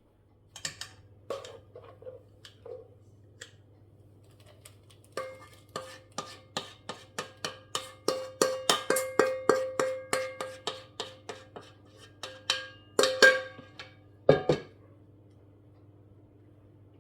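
A utensil clinking against a ringing dish: scattered knocks at first, then a quick regular series of about three strikes a second, ending in two louder clusters of clatter. A low steady hum runs underneath.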